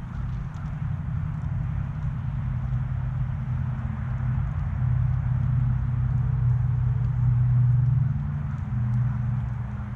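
A motor vehicle's engine, a low hum that grows louder to a peak about seven to eight seconds in and then eases off, like a vehicle passing by.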